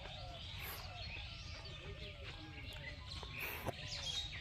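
Many birds chirping and calling together in the morning, a mix of quick high chirps and lower repeated curved calls, over a steady low rumble.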